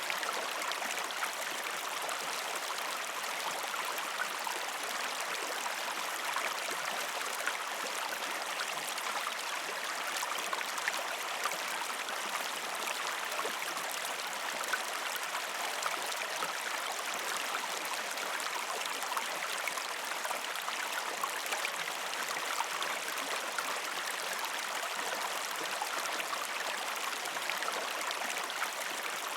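A river stream flowing over rocks: a steady rush of water with small splashes and trickles throughout.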